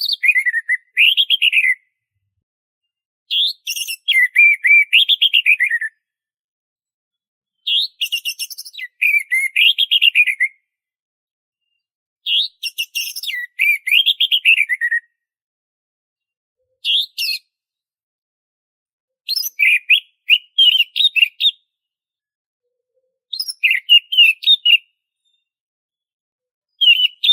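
Orange-headed thrush singing: short phrases of clear, warbled whistling notes, each about two seconds long, repeated roughly every four seconds with silence between.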